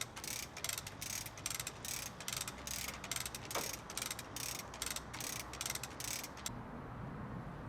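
Ratchet of a hand-operated hoist or winch clicking steadily, about three to four clicks a second, as a heavy load is cranked up. There is a brief squeak near the middle, and the clicking stops about six and a half seconds in.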